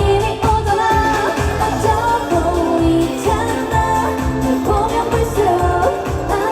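Live trot song performance: a woman singing over an amplified backing track with a steady, heavy beat.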